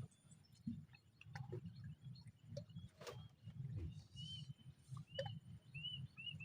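A few short, high chirping calls from a small animal, several in quick succession in the second half. Under them run a low rumble and scattered light ticks and taps.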